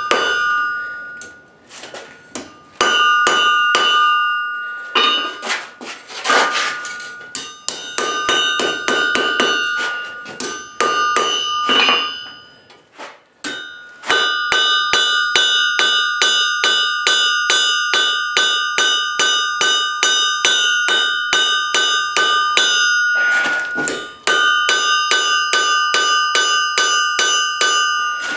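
Hand hammer striking hot spring steel on an anvil in quick, even blows, about three a second, the anvil ringing steadily between strikes. The hammering breaks off briefly twice, then runs on.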